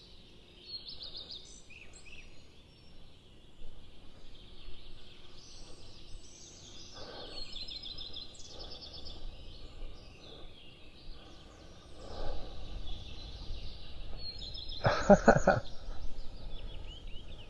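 Several songbirds singing outdoors, with repeated chirps and quick trills, over a low wind rumble on the microphone that grows in the second half. A brief louder, pitched sound stands out about fifteen seconds in.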